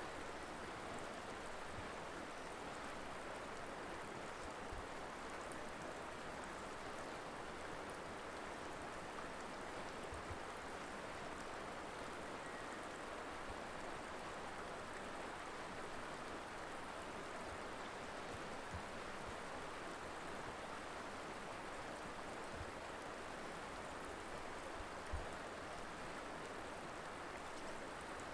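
Colorado River flowing, a steady, even rush of water, with a few brief low knocks, the strongest near the end.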